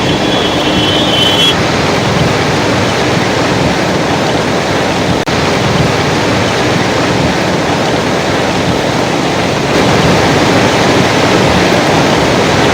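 Floodwater of the swollen Shipra River rushing, a loud steady noise of flowing water. A short high tone sounds in the first second and a half, and the water gets slightly louder about ten seconds in.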